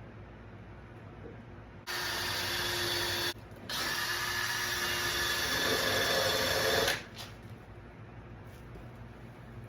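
Small handheld electric power tool, such as a drill, run in two bursts: about a second and a half, a brief stop, then about three seconds. It is being used to clean rust off a car part.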